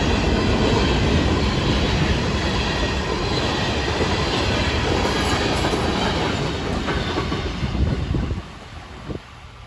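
Freight train cars rolling past, their wheels clacking over the rail joints. The sound falls away sharply about eight seconds in as the end of the train goes by.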